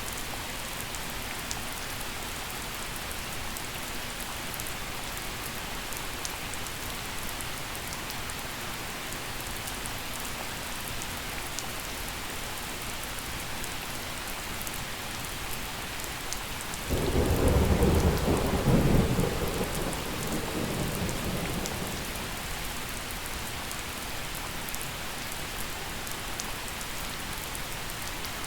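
Steady gentle rain falling, with one roll of thunder that starts suddenly about two-thirds of the way through, rumbles loudest for a couple of seconds and fades away over the next few.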